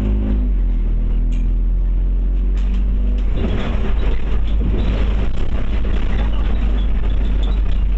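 Scania OmniCity bus heard from inside, its engine running with a steady low drone. About three seconds in the sound turns rougher and a little louder.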